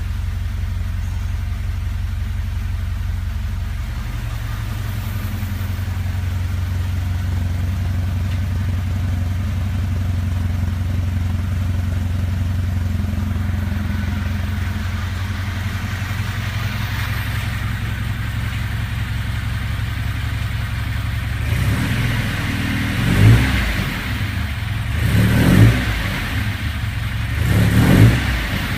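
1974 Alfa Romeo Spider's twin-cam four-cylinder, with SPICA mechanical fuel injection, idling steadily after a cold start. Over the last several seconds the throttle is blipped three times, the revs rising and falling back each time. Its injection and timing have just been serviced.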